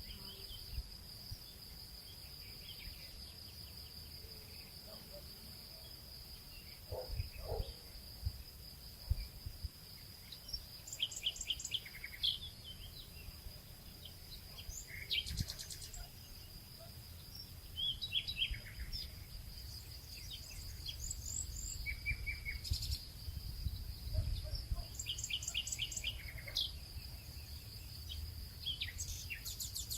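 Nature ambience: a steady high insect buzz, with birds chirping in short repeated trills over a low rumble.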